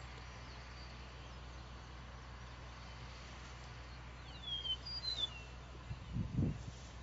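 A small bird chirps several quick falling notes about four and a half to five seconds in, over a steady low hum. A brief low thump near the end is the loudest sound.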